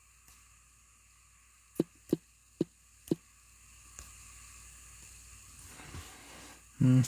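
Four quick, sharp knocks about two to three seconds in, then quiet room tone; a loud, steady pitched tone with overtones starts just before the end.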